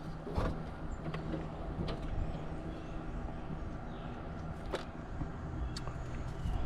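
Scattered light clicks and taps of hands working wire connections on an air conditioner's condenser fan motor, over a steady low hum.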